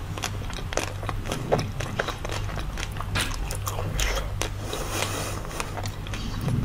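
Close-miked biting and chewing of a green ice cream bar: a run of short, crisp crackling clicks over a steady low hum.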